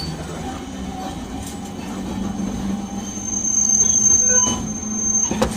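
Nagasaki Electric Tramway 370-type streetcar running, with a steady low hum from the car, joined about three seconds in by a high, steady wheel squeal that cuts off suddenly near the end.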